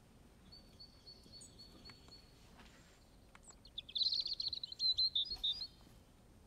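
A bird singing: a thin, high held note, then about four seconds in a louder rapid trill lasting about two seconds.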